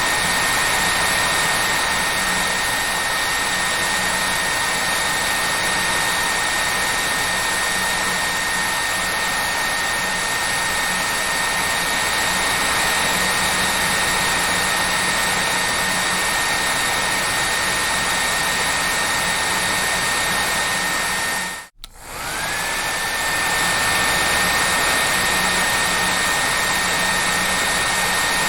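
Hair dryer running steadily as white noise: an even rushing blow with a thin high whine. About three quarters of the way through the sound cuts out for a split second, then comes back with the whine sliding up to its usual pitch.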